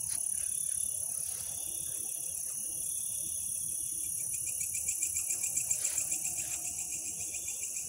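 Several insects, crickets among them, chirring at once: a steady high trill with rapid, evenly repeating chirps. About four seconds in, a lower pulsing chirp joins.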